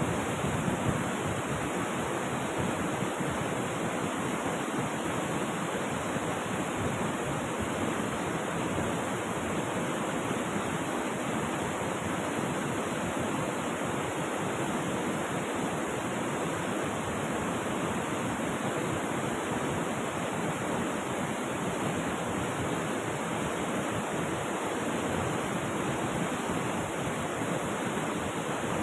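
Rushing river water: a steady, unbroken wash of flowing water with no distinct splashes or pauses.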